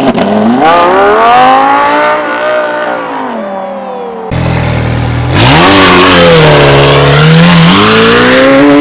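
Car engine revving hard, its pitch climbing and then falling, then climbing again about halfway through. A loud rushing noise joins it from a little past halfway.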